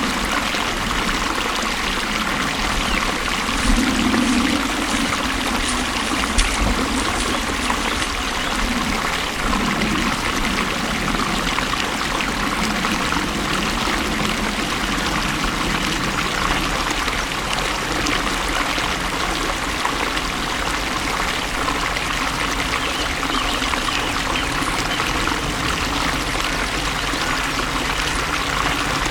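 Flowing water, a steady stream running and trickling with small swells now and then.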